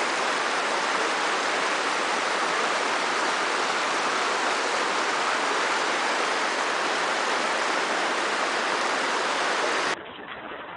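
Waterfall's rushing water: a steady, dense hiss that cuts off abruptly near the end, giving way to a much quieter, duller background.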